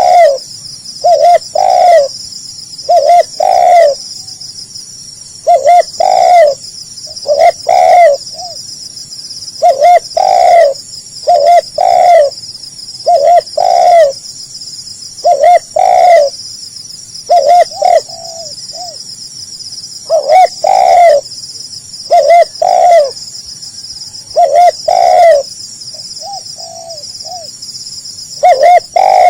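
Spotted dove cooing loudly in repeated short phrases of two to four notes, a phrase about every two seconds. A steady high-pitched buzz of insects runs underneath.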